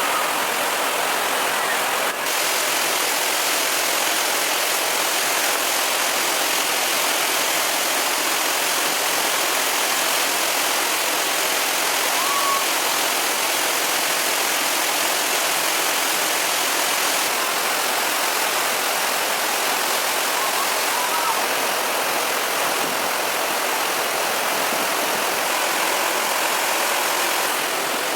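Water rushing steadily in a stream or small waterfall, an even, unbroken roar, with a couple of faint short chirps.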